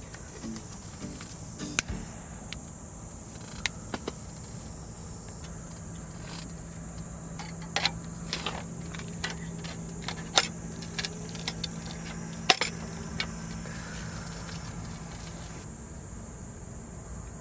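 Scattered light clinks and knocks, as of gear being handled, over a steady high-pitched insect drone. A low steady hum runs under them through most of the middle, then stops.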